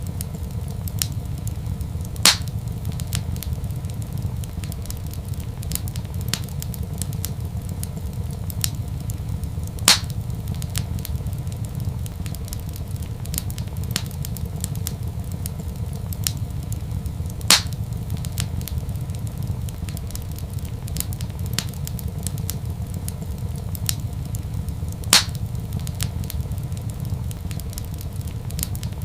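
Wood fire crackling in a fireplace: scattered small ticks and four louder sharp pops, evenly spaced about every seven and a half seconds, over a steady low rumble.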